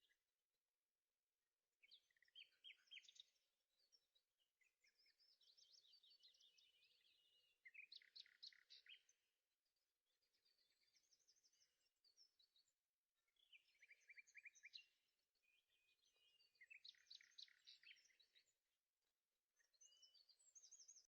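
Faint birdsong: a small bird sings quick trilled phrases, one every two seconds or so, over a faint steady background hum.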